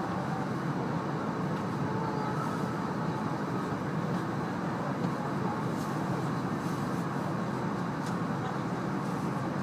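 E2 series Shinkansen running at speed, heard inside the passenger cabin: a steady, even rumble of wheels on rail and running gear, with a few faint ticks.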